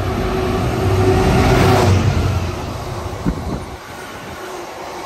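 A Class 66 diesel-electric freight locomotive running through at speed, its engine loudest about two seconds in as it passes close by. Its freight wagons follow, rolling past with a single clack over the rails.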